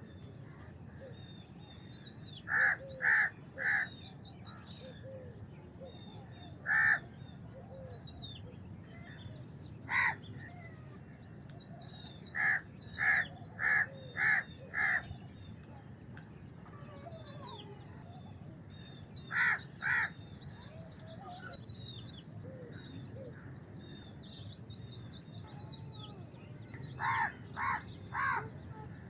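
House crows cawing: loud, short, harsh caws that come singly and in quick runs of two to five, spread across the whole stretch. Smaller birds twitter high and almost without pause in the background.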